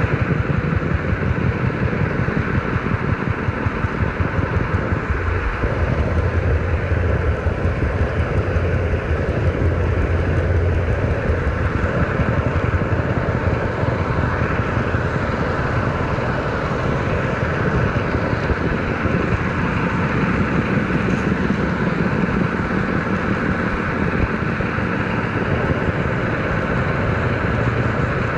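HO scale model train running on the layout, a steady mechanical running sound with no break.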